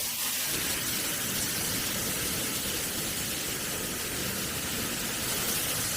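Hot-spring waterfall pouring down in a steady rushing hiss of falling water.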